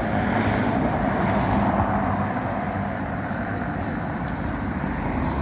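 Steady motor-vehicle noise: engine hum with road and tyre noise.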